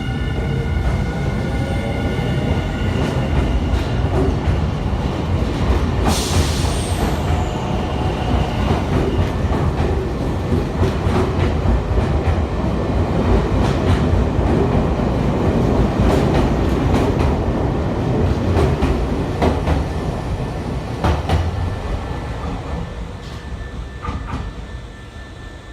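Semboku Rapid Railway 7020 series electric train pulling out, its motors whining and rising in pitch at first. Its wheels then rumble and clack over rail joints and points, with a short hiss about six seconds in, and the sound fades near the end as it moves away.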